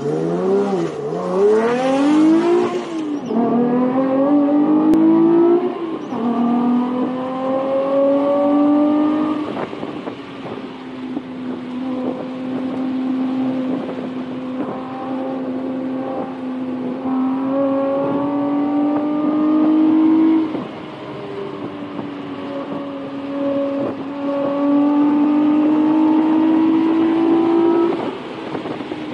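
Toyota MR2 with a swapped-in 2GR 3.5-litre V6, heard from inside the cabin, pulling hard on track: the engine note climbs through each pull and drops sharply at each upshift, with stretches of steadier running between pulls. Quick rises and falls in revs come in the first few seconds.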